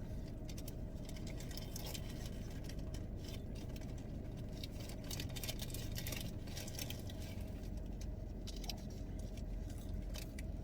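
Steady low hum of a car cabin with the engine running, under crisp, irregular crinkling of a paper burger wrapper and eating sounds.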